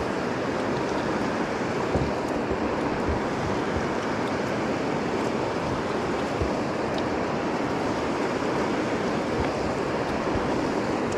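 Steady rush of river water running through a shoal's riffles, an even wash with no breaks.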